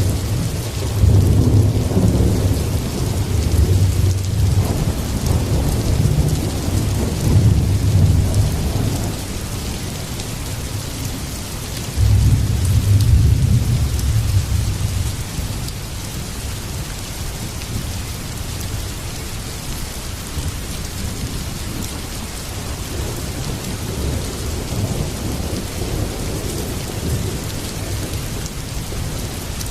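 Heavy rain falling steadily with rolling thunder. A long low rumble runs through the first several seconds, then a fresh peal breaks in suddenly about twelve seconds in and dies away over a few seconds.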